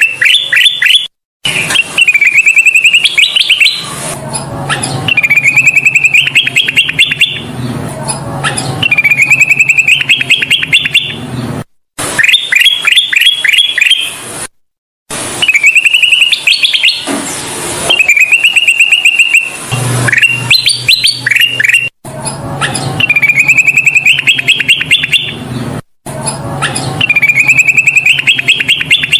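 Kutilang emas bulbul singing: the same quick phrase of rising chirped notes, repeated about every two to three seconds, as in a looped lure recording for training caged songbirds. A few abrupt silent gaps break the song.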